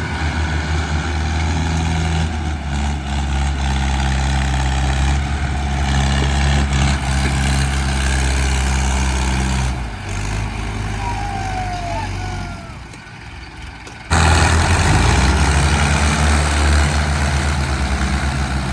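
Arjun tractor's diesel engine running steadily while hauling a fully loaded wood trolley. The engine sound drops away from about ten seconds in, then jumps back suddenly loud about four seconds later.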